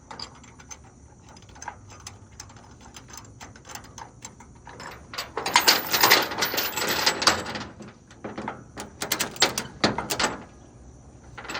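Metal tow-strap hardware (a shackle, a ring and a hook) clinking and rattling as it is handled and connected. There is a denser, louder stretch of rattling about halfway through and another burst of clicks near the end.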